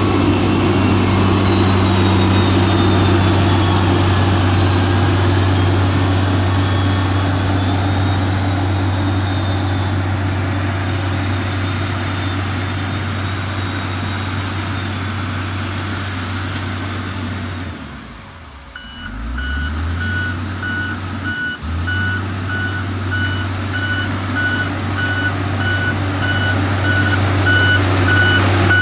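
Heavy diesel engine of a motor grader running steadily under load. About two-thirds of the way through the engine drops away briefly and then picks up again, and a reversing alarm starts beeping evenly as the machine backs up.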